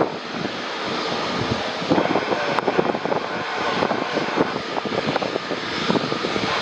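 Jet airliner engines running: a loud, steady rushing noise that rises and falls unevenly.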